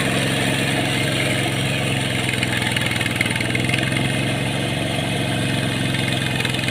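Engine of a rice-field plough tractor running steadily at an even speed, with no change in pitch.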